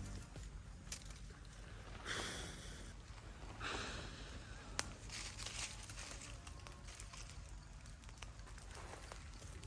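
Faint rustling and crinkling handling noises: two brief swishes a few seconds in and a single sharp click near the middle, over a low steady hum.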